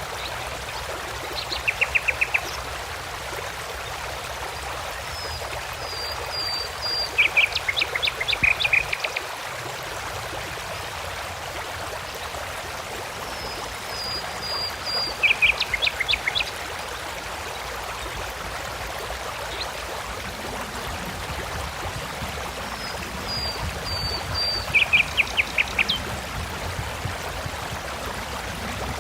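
A songbird singing a short phrase several times, a few high whistled notes followed by a quick run of about six notes, about every nine seconds. Under it runs a steady rush of flowing water.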